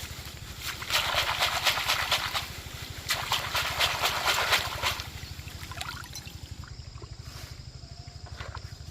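A small engine running steadily with a fast low pulse, with three bursts of crackly, splashy noise over the first five seconds.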